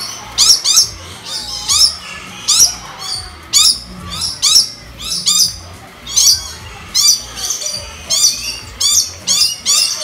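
Birds calling: loud, sharp, high-pitched chirps repeating about twice a second, each a quick run of short notes.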